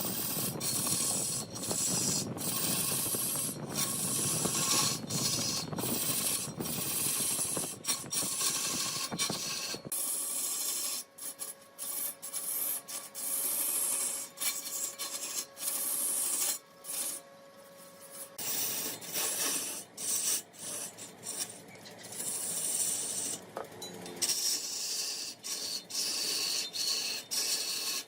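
Woodturning lathe: a tool scraping against a spinning mahogany workpiece, a steady hissing scrape broken by many short gaps. A low rumble under it drops away about ten seconds in and comes back near the end.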